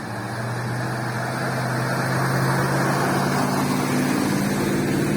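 A motor vehicle's engine running steadily, growing louder over the first couple of seconds and then holding.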